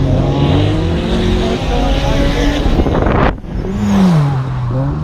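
Race car engines running and passing at a track, several engine tones at once. A little past three seconds in the sound drops out abruptly, then one engine's tone falls in pitch as a car goes by.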